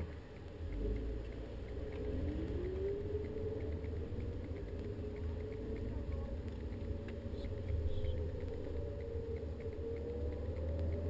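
Volkswagen Golf GTI engine heard from inside the cabin, accelerating onto the track: its pitch rises, drops at a gear change around the middle, then rises again over a low road rumble.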